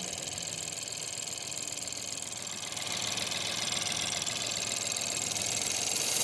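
Ford 1.0 EcoBoost three-cylinder engine idling, with a hiss of air that grows louder about halfway in as it is drawn in through a pulled-off vacuum pipe. This deliberate vacuum leak makes the engine run lean, to test how the upstream and downstream oxygen sensors respond.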